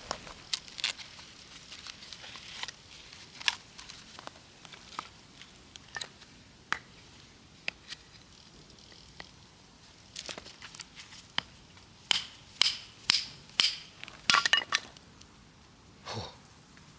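Firewood being split with a GANZO camping knife: scattered knocks and cracks, then a run of loud strikes about half a second apart near the end.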